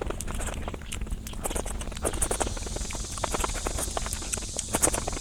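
Close-miked eating sounds: chewing with a quick, irregular run of mouth clicks and smacks.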